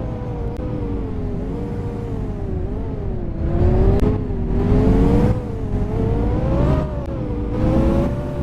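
Scania K230UB city bus heard from on board: its diesel engine and Voith automatic gearbox running under way, the tonal whine rising and falling in pitch several times as the bus speeds up and eases off, over a constant low rumble.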